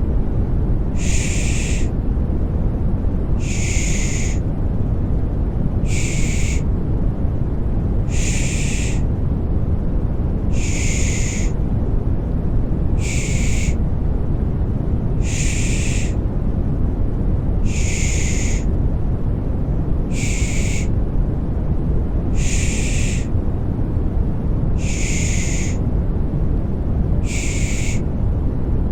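Baby-soothing 'shh' shushing, repeated evenly about every two and a half seconds, each shush under a second long, over a steady low rumbling noise.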